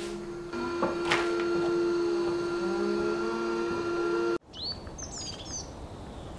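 A steady hum with a held pitch, then an abrupt cut about four seconds in to birds chirping, several short high chirps.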